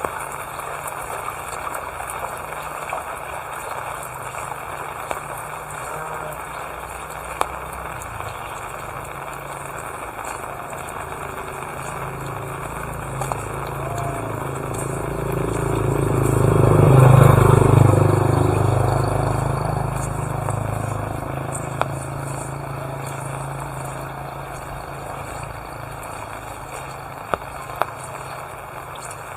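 Steady rainfall with scattered drips. About halfway through, a motorbike passes by: its engine grows louder, peaks and fades away over several seconds.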